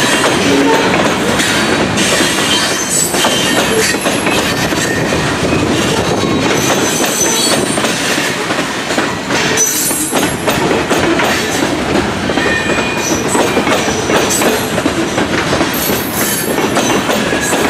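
Loaded grain hopper cars of a freight train rolling past steadily, wheels clattering over the rail joints, with occasional brief high squeals from the wheels.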